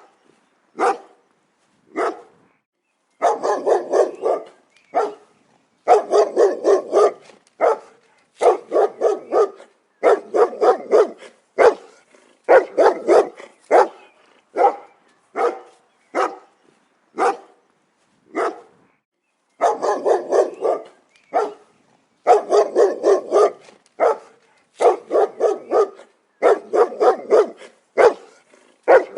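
A dog barking repeatedly, mostly in quick runs of several barks with short silent gaps and a few single barks between them.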